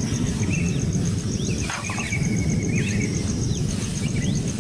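Small birds chirping in short, sharp, upslurred notes and brief trills, over a steady low rumble. An insect keeps up a fast, even, high pulsing throughout.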